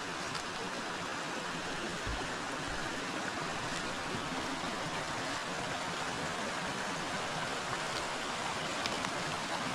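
River water flowing steadily, an even rushing wash with a few faint ticks.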